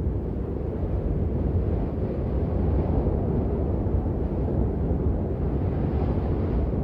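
Steady rain: a dense, even wash of noise, heavy in the low end and dull at the top, with no single drops or hits standing out.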